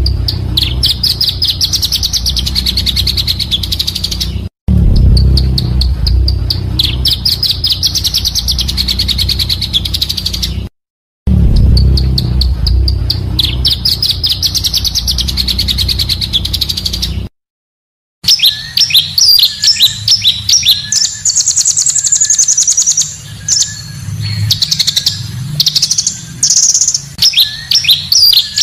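Recorded song of the pancawarna bird: rapid high trills repeated in bursts over a low hum, broken by short silent gaps, then from about 18 seconds in a cleaner string of quick separate chirps and whistles.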